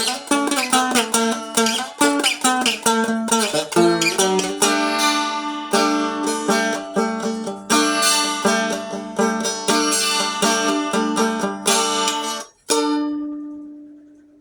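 Seagull Merlin, a fretted dulcimer-style instrument tuned D-A-D, being picked: quick melody notes over a ringing open-string drone, then slower notes. The playing stops near the end, and a last note is left to ring and fade away.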